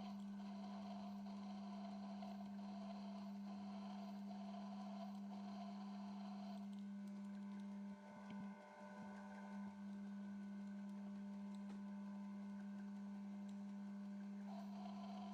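Metal lathe running with a faint, steady hum, a low even tone with no cutting chatter.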